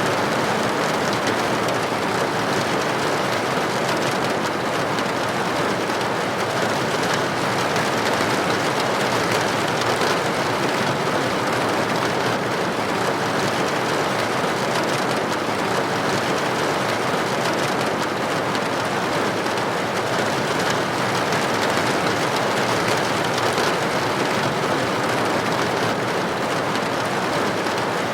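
Steady rain with droplets striking a building window, an even hiss that stays constant throughout.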